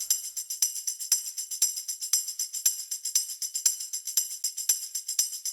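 Background music thinned to a tambourine-like jingle alone, shaken in a steady rhythm of about four strokes a second, with a stronger accent every half second.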